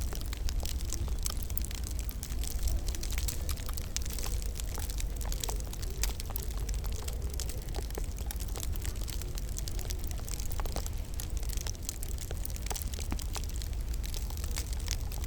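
Wood fire in a fireplace crackling, with many small irregular pops and snaps over a steady low rumble.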